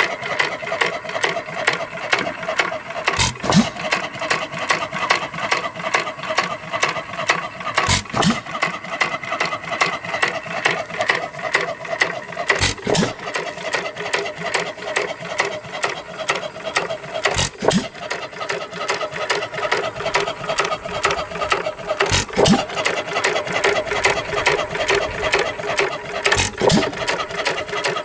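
A 1917 Chapman 2 hp hit-and-miss gasoline engine running with a steady, rapid mechanical clatter, and a louder knock about every four to five seconds.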